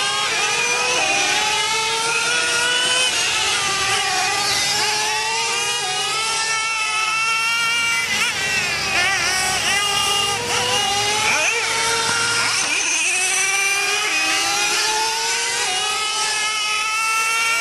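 Several nitro RC monster trucks' small two-stroke glow engines running at high pitch, overlapping and revving up and down again and again as the trucks throttle and lift around the dirt oval.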